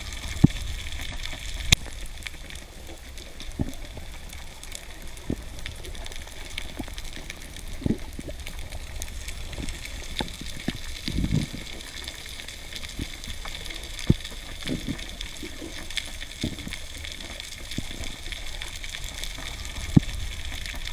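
Underwater ambience: a steady rush of water noise with a low rumble, dotted with scattered sharp clicks and brief low gurgles.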